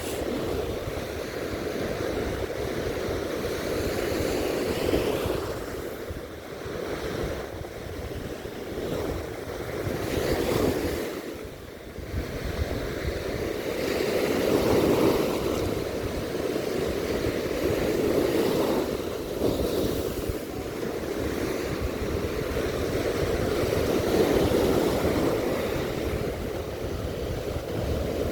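Winter sea waves breaking and washing up on the beach in repeated surges, swelling and easing every few seconds, with wind rumbling on the microphone.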